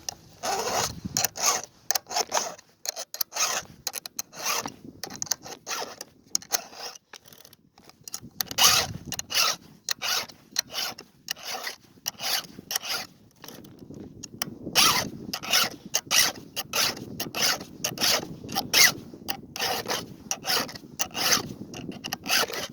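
Round chainsaw file rasping across the steel cutter teeth of a saw chain in quick repeated strokes, with short pauses between runs of strokes.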